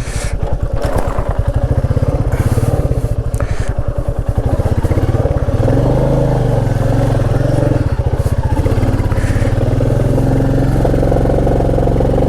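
Motorcycle engine labouring up a steep, difficult off-road climb, chugging at low revs at first, then the revs rise and hold about halfway through as the bike pulls up the slope.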